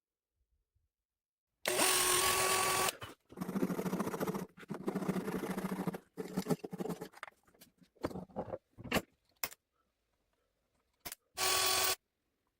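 Electric drill boring into a wooden handle block, run in several bursts. A motor whine starts it and comes back briefly near the end, with a lower, chattering stretch while the bit cuts, then a few short separate bursts.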